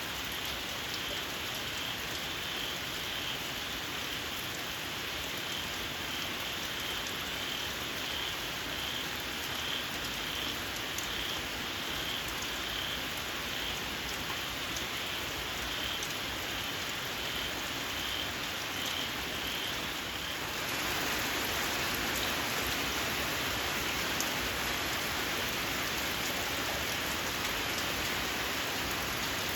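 Steady rain falling, with a small frog giving a shrill call repeated about once a second. About two-thirds of the way through the calling stops and the rain grows louder.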